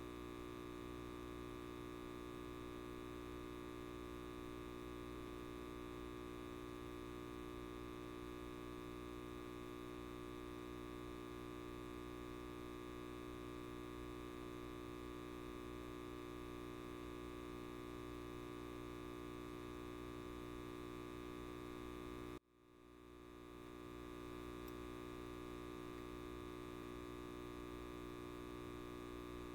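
Light bulb buzzing with a steady electrical hum of many tones. About three quarters of the way through, it drops out abruptly and swells back over a second or so.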